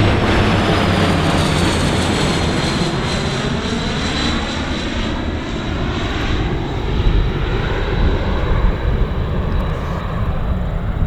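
HondaJet's twin GE Honda HF120 turbofans passing close by, a steady rush of jet noise with a high whine that falls in pitch over the first few seconds and then holds steady.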